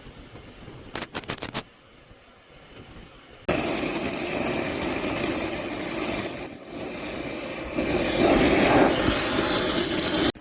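A few quick knocks about a second in, then a loud, steady rushing roar of metal-cutting work on a bulldozer track chain that starts suddenly about three and a half seconds in, grows louder near the end and stops abruptly.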